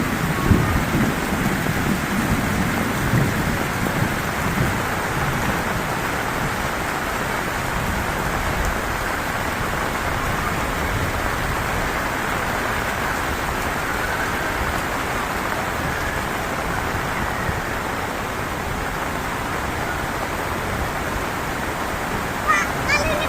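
Heavy rain pouring steadily, a dense even hiss of drops on surfaces, with a low rumble in the first second or so.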